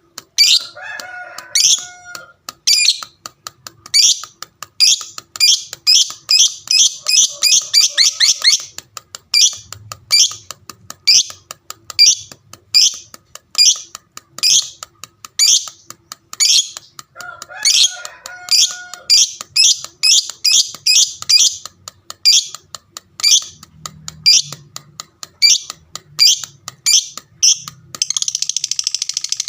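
Lovebird doing its long ngekek chatter: a run of sharp, high chirps several a second that quickens in bursts, with a few lower squeaky calls, and near the end turns into a continuous dense chatter.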